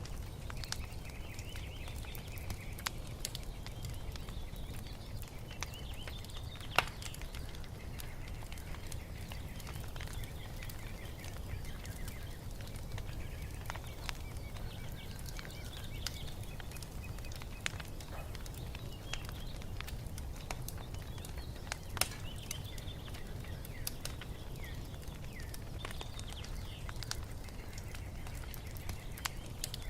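Wood fire crackling with scattered sharp pops, the loudest about 7 and 22 seconds in, over a steady low background noise, while small birds chirp throughout.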